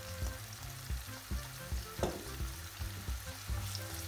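Diced potatoes and carrots sizzling in olive oil in a frying pan, with a silicone spatula stirring through them toward the end and a single knock about two seconds in.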